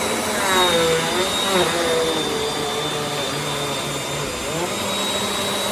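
Bissell CleanView Compact upright vacuum (3508 series) running on carpet: a steady rushing motor noise with a high whine, its lower pitch dipping and rising a few times.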